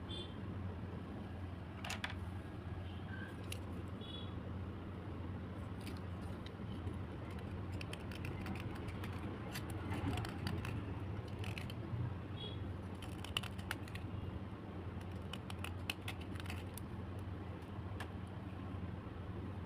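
Slate pencils being handled and scraped: scattered small clicks and short scratches, busier in the second half, over a steady low hum.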